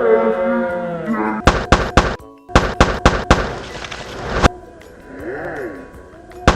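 A run of sharp thuds, about seven in quick succession, follows a second of music-like held tones. A quieter warbling, swooping sound comes after them, and one more hit lands at the end.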